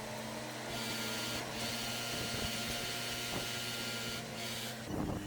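Boatyard crane's engine and hydraulics running steadily under load while lifting a sailboat, a low hum with a high whine that starts about a second in, breaks off briefly, and stops near the end.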